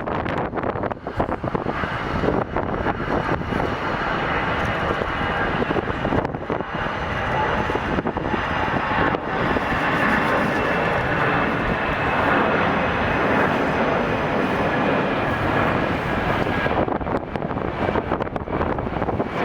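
Jet airliner's engines passing by: a steady rushing roar with a faint high whine, growing louder toward the middle and easing off near the end. Wind buffets the microphone underneath.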